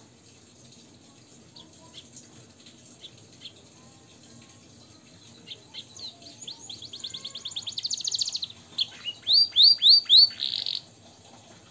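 Canary-type finch singing: scattered soft chips, then from about six seconds a rapid trill of quick high notes that grows louder, followed by four or five loud sweeping whistles and a short buzzy note near the end.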